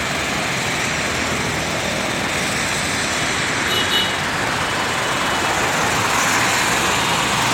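Car driving along a road: steady road and engine noise.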